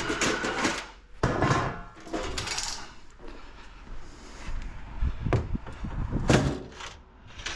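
Desktop computer towers being shifted and set down: a series of knocks, thumps and scrapes.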